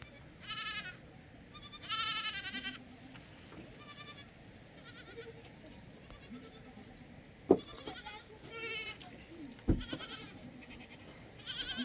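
Goats bleating again and again, short high quavering calls. Two sharp thumps in the second half, the later one the loudest sound.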